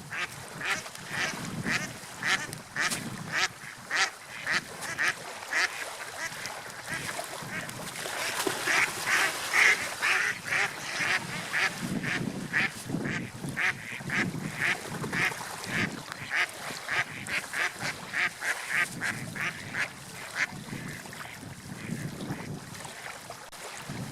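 Waterfowl calling in a long run of short, quickly repeated calls, several a second, over a low rushing wash.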